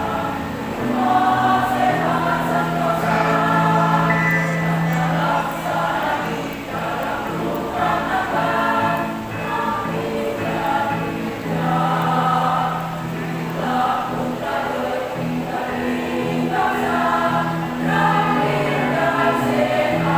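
A women's choir singing a song together, with steady low held notes sounding beneath the voices.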